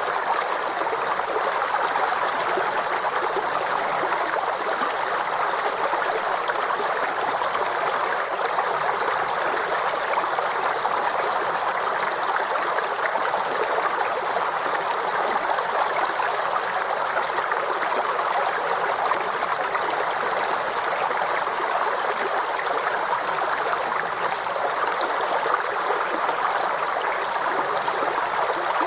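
A forest stream flowing steadily, its water rushing and trickling in an even, unbroken wash.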